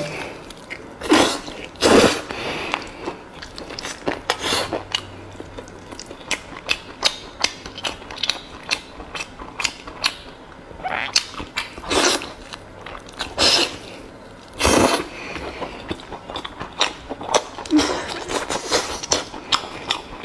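Close-miked chewing and biting of beef wrapped in tripe: many short mouth clicks and smacks, with several louder bites spread through.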